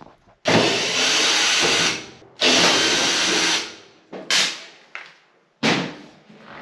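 Power drill-driver running in two long spells of about a second and a half each, then two short bursts, backing screws out to take the dryer's panels off again.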